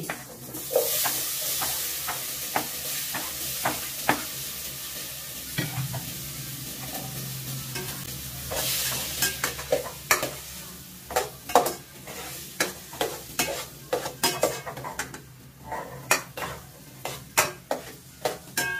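Food sautéing in an aluminium pot on a gas stove, a steady sizzle that swells about a second in and again around nine seconds, while a metal spoon stirs and scrapes the pot. The spoon clinks against the pot again and again, most often in the second half.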